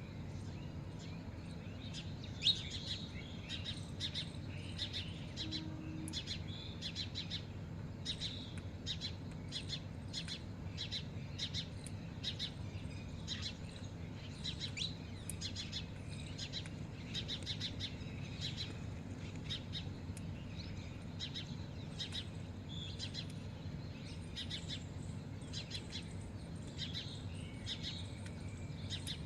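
A flock of small birds chirping busily, with many short high notes overlapping throughout, over a low steady hum. One sharp click about two and a half seconds in.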